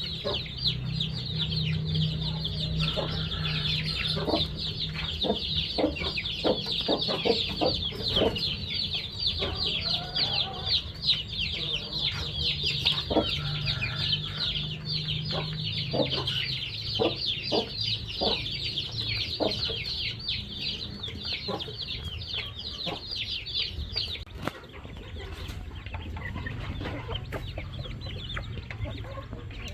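A brood of chicks peeping continuously, a dense chorus of rapid high chirps that stops about 24 seconds in. Scattered short taps and a low steady hum run underneath.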